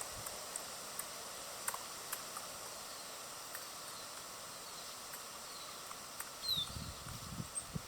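Small birds at a feeder: a few faint, short falling chirps and scattered light clicks and taps over a steady outdoor hiss, with a cluster of soft low thumps near the end.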